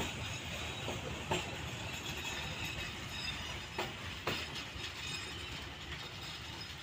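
Passenger train coaches rolling past with a steady rumble and a few sharp clacks of the wheels over the rail joints, easing off slightly as the train draws away.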